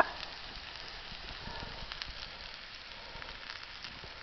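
Wood campfire crackling: a steady hiss with frequent small pops.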